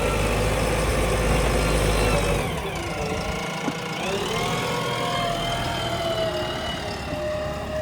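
Diesel engine running steadily. Its note drops about two and a half seconds in and picks up again about a second later.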